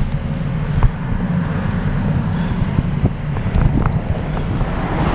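Riding noise from a moving bicycle: a steady low rumble with scattered sharp clicks and knocks.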